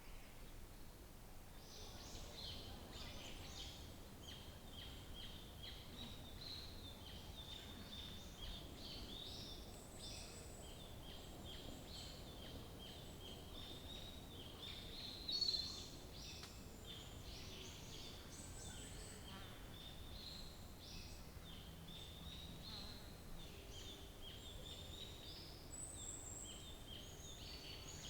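Several wild birds singing at once: a dense, continuous chorus of short high chirps and trills, fairly faint, with one louder note about halfway through.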